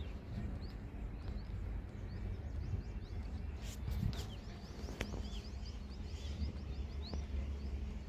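Small birds chirping, many short rising chirps, over a steady low rumble, with a few faint clicks near the middle.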